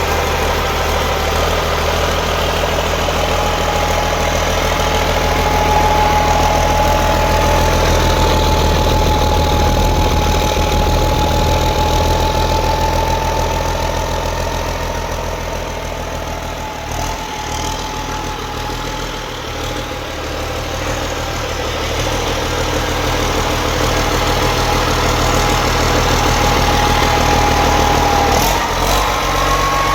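Restored Yanmar engine running steadily at idle, dipping slightly in loudness around the middle and a little higher in pitch near the end.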